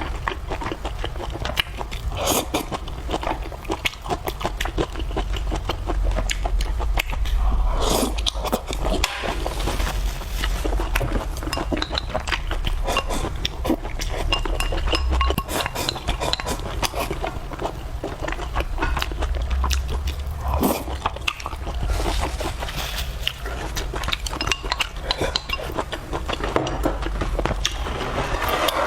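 Close-up eating sounds: chewing and slurping of fried noodles and vegetables with rice, with utensils clinking and scraping on dishes.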